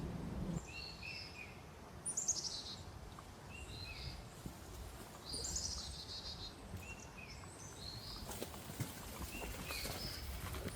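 Small songbirds calling: repeated short high chirps, with a quick trill about two seconds in and another about five and a half seconds in.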